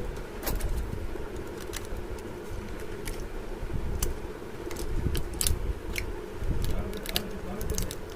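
Scattered sharp clicks and light clatter of hands handling small parts and tools on an opened speaker box, about a dozen irregular ticks, over a steady low hum.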